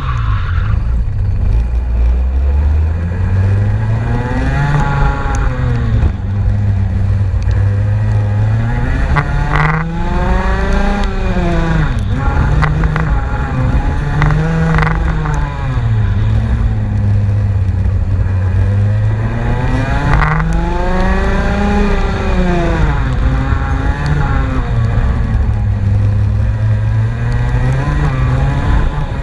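Race car engine running hard, its note rising and falling over and over as the car accelerates and lifts off.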